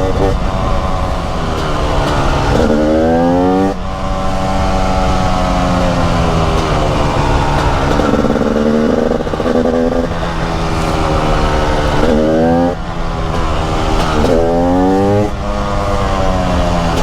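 TM 300 SMR supermoto's 300 cc single-cylinder two-stroke engine under way, revs climbing hard through three strong accelerations with brief drops in between and steadier running in the stretches between them.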